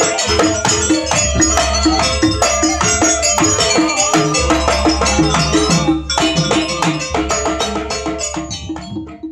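Live jaranan ensemble music: gamelan-style percussion with evenly repeating pitched metal strikes and drums over a low sustained bass, dying away near the end.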